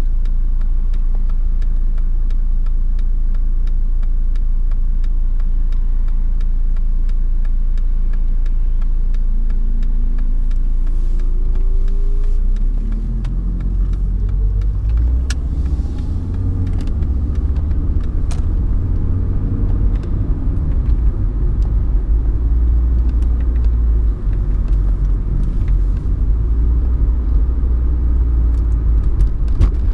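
Mercedes-Benz 190D's 2.5-litre five-cylinder OM602 turbodiesel running under way, heard from inside the cabin, with steady low rumble. Its note climbs in pitch about ten seconds in, dips briefly, then grows louder and heavier for the rest of the drive.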